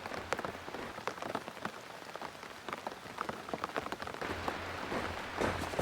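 Steady rain falling on a surface, with many sharp, separate drop impacts over a constant hiss.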